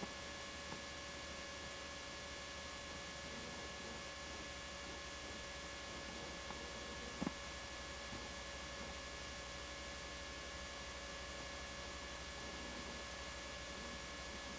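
Steady electrical hum and hiss on a degraded home-video soundtrack, with one short click about seven seconds in.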